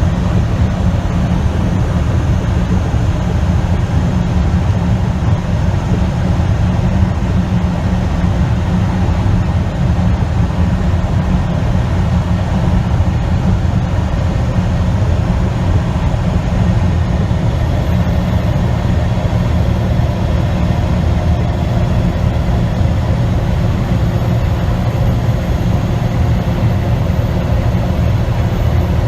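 Tractor-trailer driving at a steady speed: a constant low engine drone mixed with road noise, unchanging throughout.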